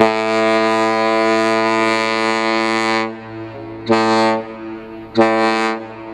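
Deep ship's horn sounding one long blast followed by two short blasts: the long-short-short salute used by Great Lakes freighters.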